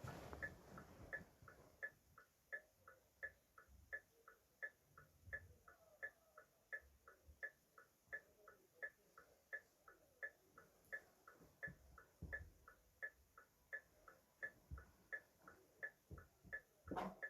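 Car hazard-light flasher relay clicking faintly and evenly, alternating a stronger and a weaker tick about three times a second as the lights blink on and off. A short louder noise breaks in near the end.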